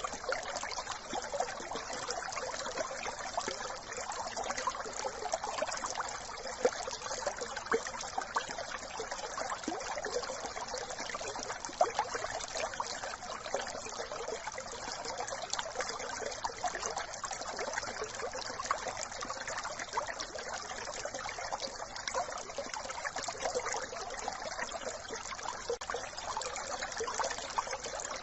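A small brook babbling and trickling over stones, a steady splashing rush with constant small spatters of water.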